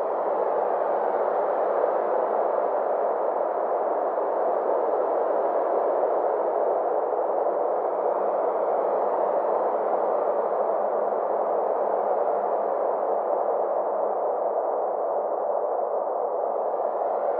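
Synthesized space-ambience drone: steady filtered noise centred in the middle range, its upper edge slowly sweeping up and down over several seconds.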